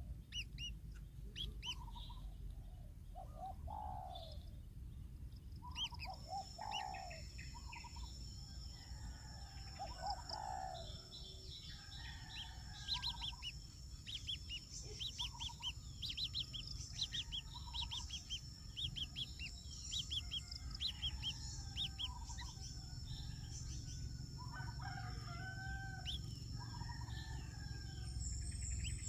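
Several birds calling: quick repeated high chirps mixed with lower, longer calls. About six seconds in, a steady high-pitched buzz or whine joins and holds, over a low background rumble.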